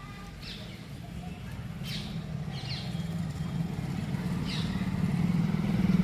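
A motor vehicle's engine running and drawing closer, growing steadily louder, with a few short bird chirps over it.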